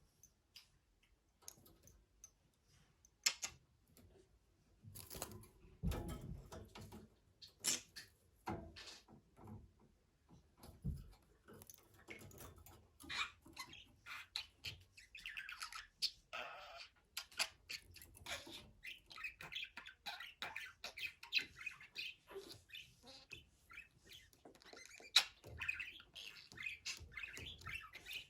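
Budgerigar chirping and chattering: scattered sharp clicks at first, then quick warbling chatter that grows denser in the second half.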